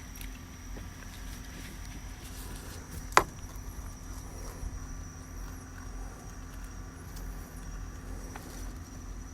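Steady low outdoor rumble with a faint hum, broken once by a sharp click about three seconds in.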